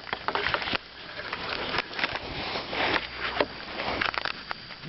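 Irregular light clicks and knocks with brief rustling noises.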